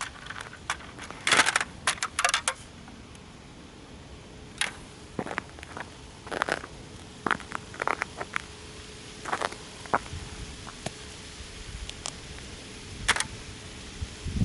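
Model toy car being stomped and crushed under cleated boots: irregular sharp cracks, snaps and small rattling clicks of breaking parts, loudest in a cluster of cracks about one to two seconds in, then scattered single snaps.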